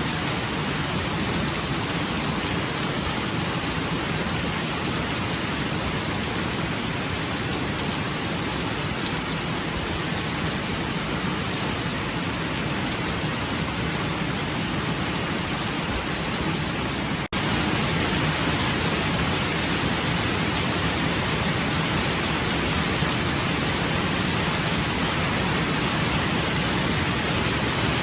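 Steady rain falling, an even hiss with no single drops standing out. About 17 seconds in the sound drops out for an instant and comes back slightly louder.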